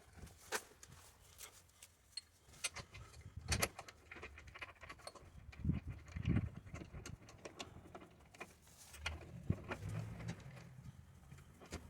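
Scattered clicks, clinks and knocks of tools and metal parts being handled, with a few duller thumps in between.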